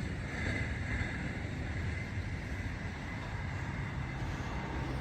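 Faint low rumble of a departing intermodal freight train after it has passed the crossing.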